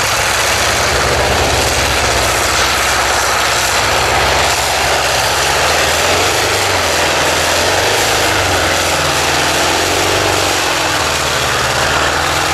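Radial aircraft engine of a pulling tractor running loud and hard under load, with its pitch wavering slightly in the second half.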